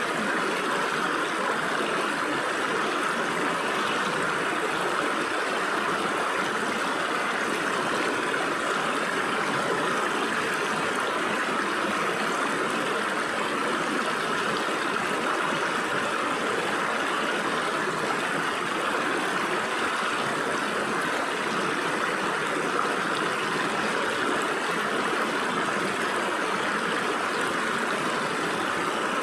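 Shallow stream water flowing and splashing through gaps between rocks, a steady, unbroken rushing with most of its energy in the middle range.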